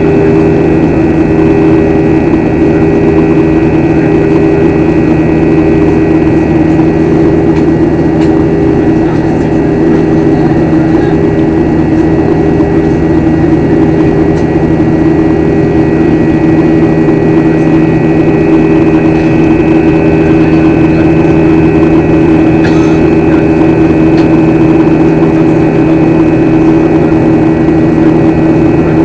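Steady in-flight airliner cabin drone: engines and rushing air making a loud, even noise with a few steady humming tones, unchanging throughout.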